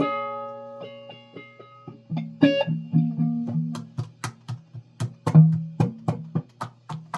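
Plucked string instrument played alone: one note rings and fades over the first two seconds, then a run of separate plucked notes follows at about two a second, uneven in loudness.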